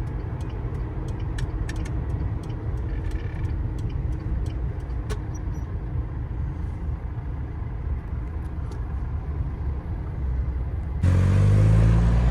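Steady low engine and road rumble inside a GAZelle van's cab, with a few faint light clicks. About 11 seconds in the sound abruptly gets louder, with a heavier engine hum.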